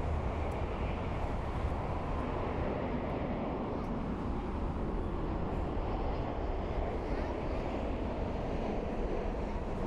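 Steady rushing noise of an Airbus A350-900's Rolls-Royce Trent XWB jet engines on approach to landing, mixed with low wind rumble on the microphone.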